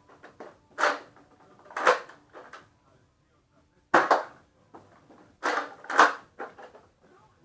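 Toy Nerf blaster being primed and fired: a series of sharp plastic clacks, five loud ones with smaller ticks between, and a short silent gap midway.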